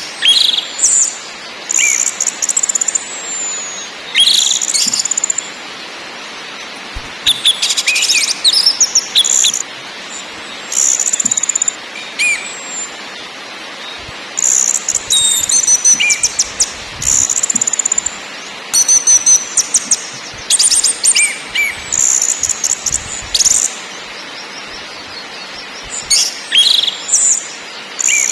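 Orange-headed thrush singing in short, high phrases every second or two, mixing rapid rattling notes with clear whistles, some sliding downward, over a steady hiss.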